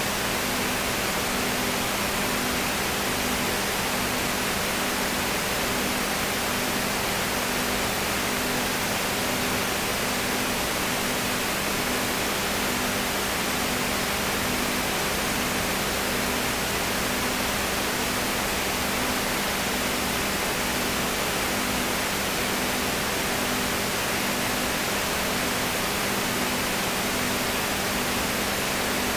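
Steady hiss, with a low hum underneath that pulses about once a second.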